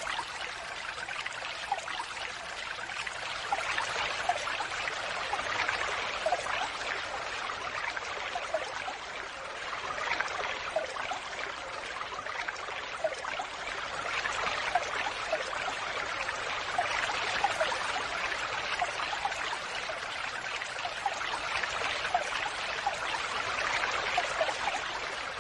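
Falling water splashing and trickling steadily, with many small bubbly plinks of droplets throughout.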